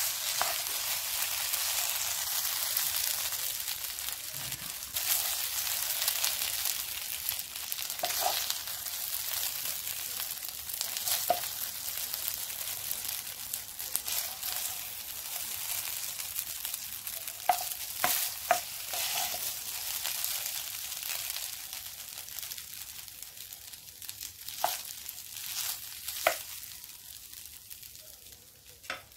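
Fried rice with shrimp and egg sizzling in the hot pan with the heat off, a steady hiss that dies down toward the end, with occasional clicks and scrapes of a utensil as the rice is served.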